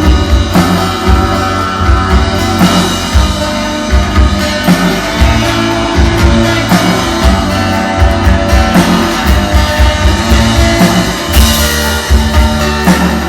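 Live rock band playing an instrumental stretch of the song, with guitar and drums, loud and steady.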